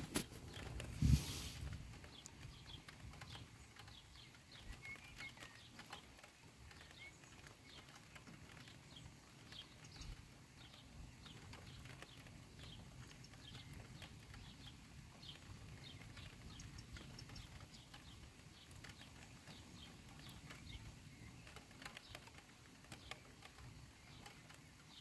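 Rain falling in scattered drops that tick faintly on a nearby surface, over a low, steady rumble. A single thump about a second in is the loudest sound.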